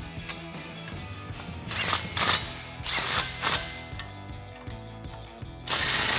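Several metallic knocks and clicks from hand tools working on the exhaust adapters and clamps, the loudest near the end, over steady background music.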